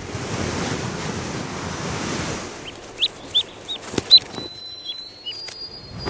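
Ducklings peeping: short, high cheeps in quick succession, starting about three seconds in after a few seconds of steady rushing noise.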